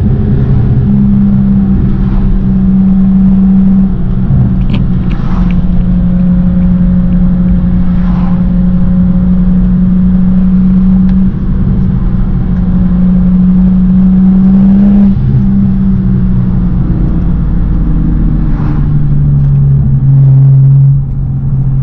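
BMW E92 335i's turbocharged straight-six with a full-bolt-on exhaust droning steadily under way at highway speed, inside the cabin. The pitch holds with small shifts as the throttle changes and steps down near the end.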